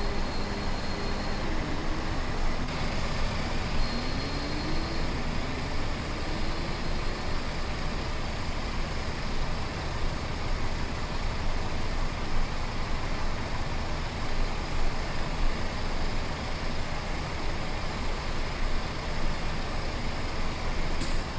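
Truck driving on the road: steady engine and road noise, with the engine note dropping and rising in the first several seconds.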